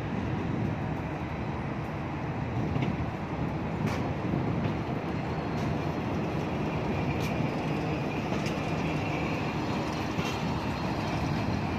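Passenger train coaches rolling past along a station platform: a steady rumble of wheels on the rails, with a few sharp clicks.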